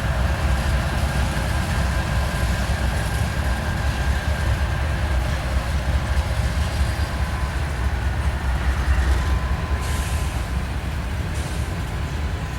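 Slow freight train rolling past: a steady heavy rumble of railcars and wheels on the rails, with a faint thin high squeal running under it.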